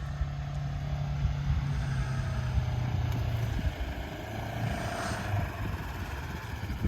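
Polaris Ranger side-by-side's engine running, a steady low drone, with a faint wavering whine about four to five seconds in.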